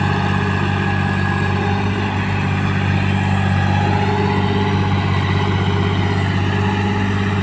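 John Deere 5045 4WD tractor's diesel engine running steadily, with a slight rise and fall in pitch about halfway through.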